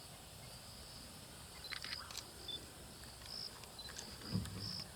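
Faint high insect chirps, a few sharp clicks about two seconds in, and a short low growl from a feeding animal near the end.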